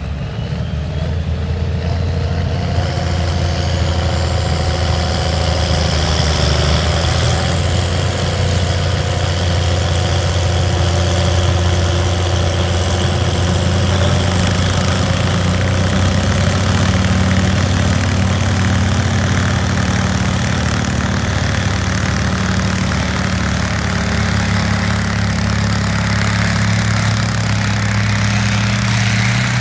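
A pulling tractor's engine running loud and steady. A high whine rises over the first several seconds and then holds.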